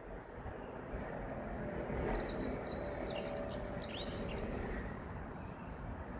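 A bird singing: a run of quick high chirps and trills, then one short call near the end, over a steady background hiss.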